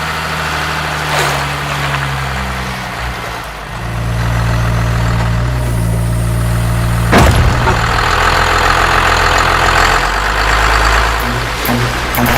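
Truck engine running steadily, its pitch shifting in steps, with one sharp bang about seven seconds in.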